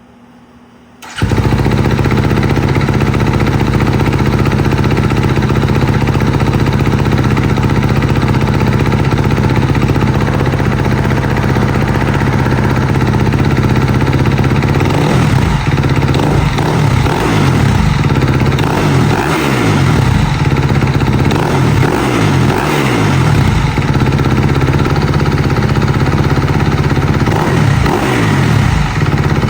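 Kawasaki KX250 dirt bike engine, breathing through a newly fitted Yoshimura full exhaust with the baffle still in, catching on its first start about a second in and idling steadily. From about halfway on it is blipped repeatedly, the revs rising and falling.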